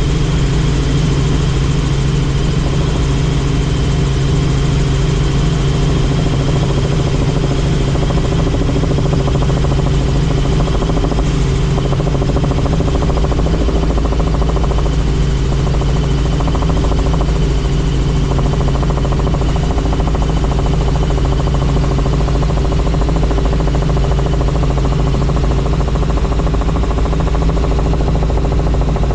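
Helicopter in flight: steady engine and rotor drone with a faint high whine above it.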